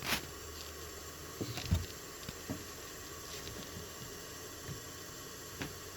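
Faint steady hum of a Juki sewing-machine clutch motor, its rotor and flywheel still coasting after being switched off, with a few light knocks.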